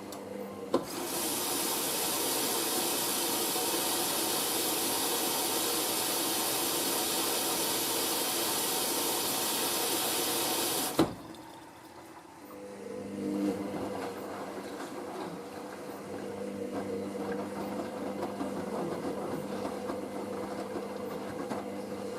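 Hoover SIX AAA160 washing machine taking in water: a steady hiss of water rushing in through the inlet valve for about ten seconds, starting and cutting off sharply with a click. After that the drum motor hums as the drum turns.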